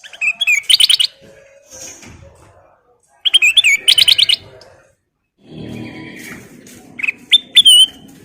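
Kutilang emas bulbul singing: two loud bursts of quick, sweeping chirps a few seconds apart, then a lower, rougher chatter with a few sharp whistled notes near the end.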